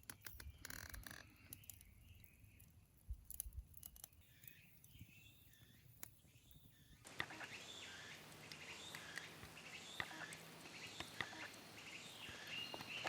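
Faint outdoor ambience with scattered sharp clicks. About halfway through, a fuller background of birds chirping comes in.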